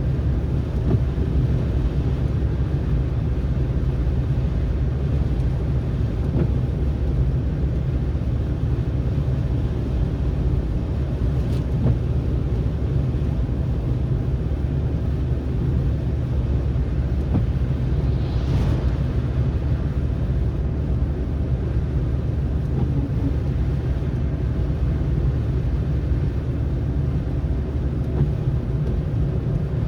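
Steady low rumble of a car driving on snowy roads: engine and tyre noise. A faint hiss swells briefly a little past halfway.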